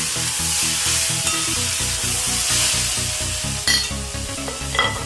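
Spiced potato and fig curry sizzling in an aluminium kadai as it is stirred with a metal spatula, with two sharp clinks of the spatula against the pan in the second half. Background music with a steady beat plays under it.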